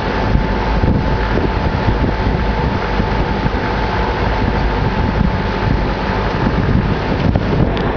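Outrigger boat's engine running steadily underway, with wind buffeting the microphone.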